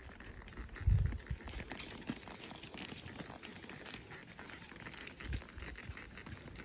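Horse walking, its hooves crunching and clicking on dry ground, with a low thump about a second in.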